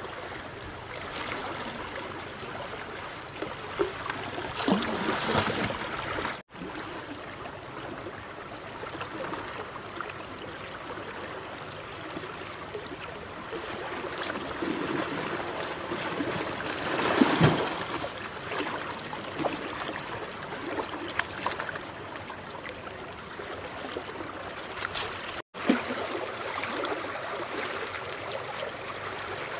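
Running water flowing steadily, with louder splashing swells about five seconds in and again around the middle.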